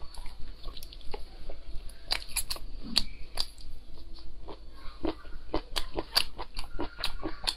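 Close-miked chewing and crunching of grilled skewered food, with irregular sharp crunches and wet mouth clicks.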